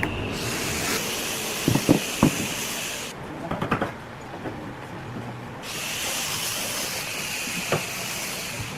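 Two bursts of steady hiss, each about three seconds long, with a few sharp knocks, the loudest in the gap between them.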